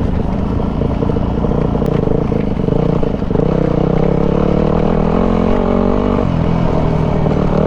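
Single-cylinder dirt bike engine running steadily while riding along a trail, its pitch rising a little about halfway through.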